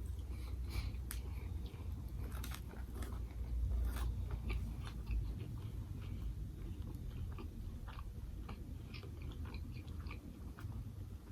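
A person biting and chewing crunchy food close to the microphone, with many small crisp crunches and clicks scattered throughout.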